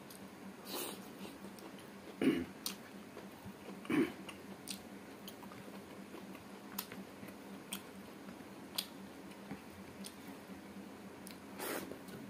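Close-miked chewing and biting of meat off the bone, with many small wet mouth clicks. There are louder bites about two and four seconds in and again near the end.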